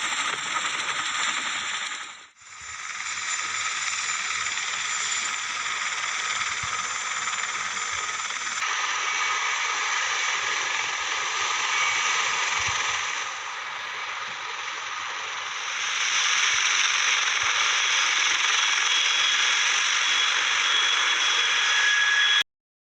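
Helicopter turbine engine noise: a steady rushing hiss with several high whining tones. It changes abruptly a few times and cuts off sharply near the end.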